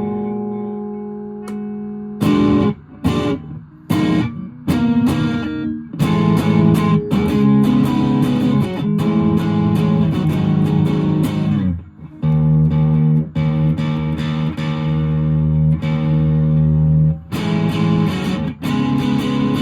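Fender Japan Jazzmaster electric guitar through a 1985 Boss DS-1 distortion pedal into an ELK FSB-45 amp: a held chord rings out and fades, then short choppy strummed stabs from about two seconds in, then longer sustained distorted chords with brief breaks around twelve and seventeen seconds. The sound is unprocessed, straight from a smartphone's microphone.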